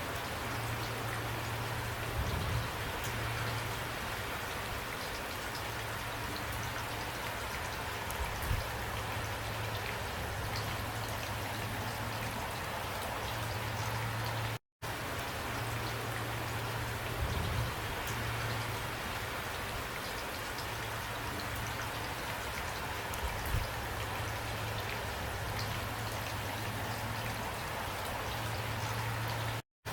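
Steady rain storm, rain falling and pattering evenly, with a steady low rumble beneath it. The sound cuts out to silence for an instant about halfway through and again at the very end.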